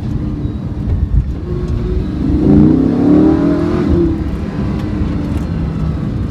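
Lamborghini Huracán LP 610-4's V10 engine heard from inside the cabin, droning steadily at low revs. About two and a half seconds in it revs up under acceleration, rising in pitch for about a second and a half, then eases back to the drone.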